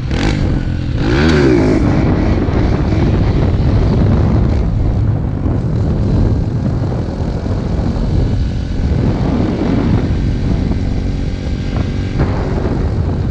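Dirt bike engine running steadily while riding, under a heavy low rumble.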